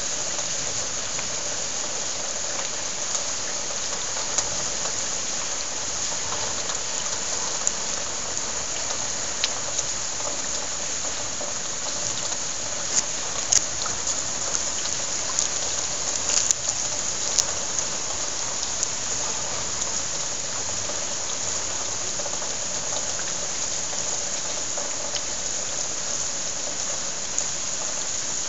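Heavy downpour: a steady hiss of hard rain, with scattered sharp ticks of drops striking close by, thickest about halfway through.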